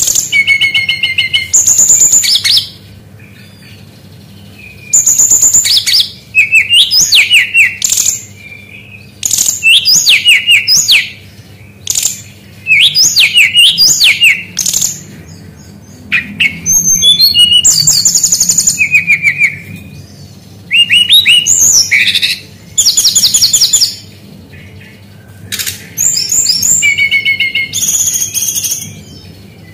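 Sikatan rimba dada coklat (brown-chested jungle flycatcher) singing in repeated loud bursts of rapid, high chattering and whistled notes, each burst a second or two long with short pauses between, a mimicking song used as a training recording for cage birds.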